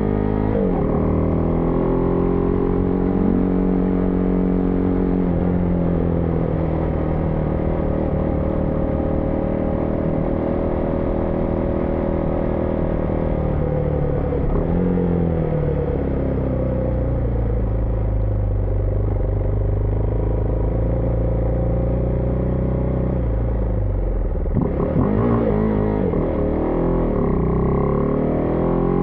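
Husqvarna Vitpilen 401's single-cylinder engine heard from the rider's seat while riding: it pulls steadily, eases off about halfway, runs at low revs for several seconds, then revs up again through the gears near the end.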